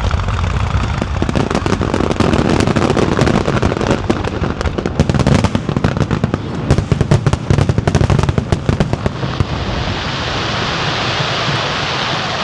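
Opening barrage of a fireworks display: a dense run of rapid crackling pops over a low rumble, starting about a second and a half in and thinning out around nine seconds in to a steady hiss.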